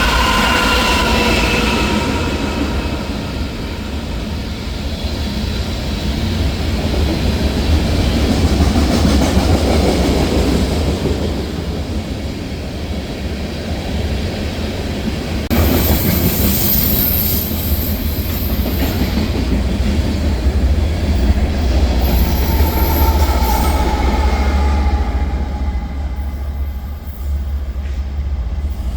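A train running past on the tracks with a steady rumble. Its wheels give brief, very high-pitched squeals about halfway through and again a few seconds later.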